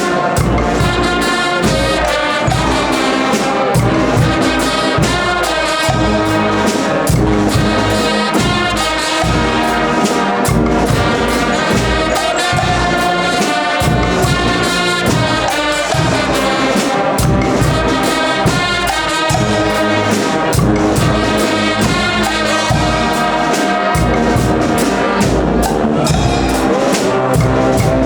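Guggenmusik band playing loudly: massed trumpets and trombones with a steady drum beat.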